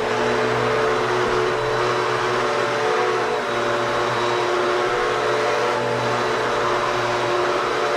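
Vacuum cleaner running steadily, its motor humming under a rushing hiss of air.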